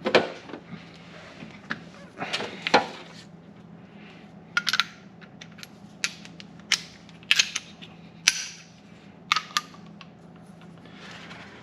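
Metal hand tools clinking and clattering as they are handled and set down: a string of separate sharp metallic clinks, some ringing briefly, over a low steady hum.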